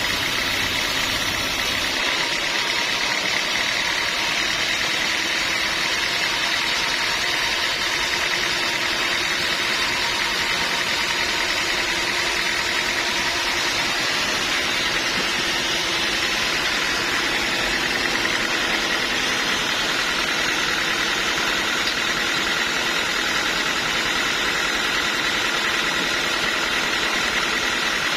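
Sawmill machinery running steadily, a constant mechanical drone with a steady high whine over it.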